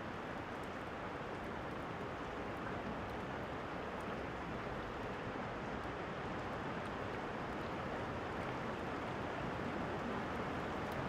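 Steady rainfall, an even hiss with no break, with a few faint crackles of a fire over it.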